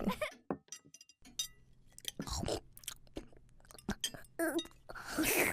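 Cartoon dinner-table sound effects: small chewing and crunching sounds with light clinks of cutlery, scattered over a quiet background, and a short rising noise near the end.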